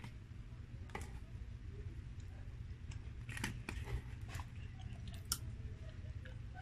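Close-up chewing and biting of food, with a few sharp clicks and crunches as a metal fork scrapes a paper food box and tears into crispy fried chicken breading. A low steady hum runs underneath.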